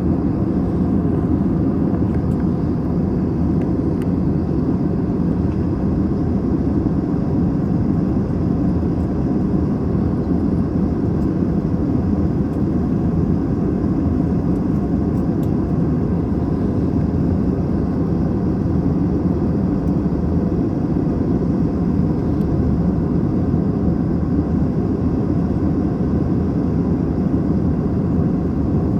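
Steady cabin noise of an Airbus A321 in flight, heard from inside the passenger cabin: an even, low-pitched blend of engine and airflow noise that does not change.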